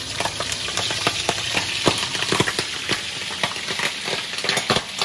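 Chicken feet frying without a flour coating in hot oil in a frying pan: a steady sizzle with many sharp, irregular pops as the oil spatters.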